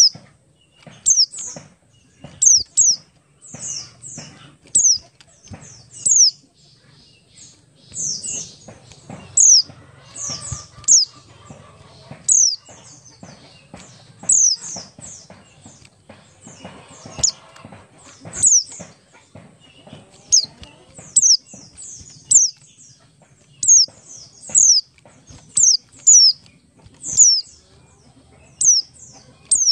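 White-eye (pleci) singing a series of short, high, downward-slurred chirps, often in quick twos and threes, roughly one burst a second. Frequent soft clicks and rustles, like wing flutters and hops in a cage, run between the notes.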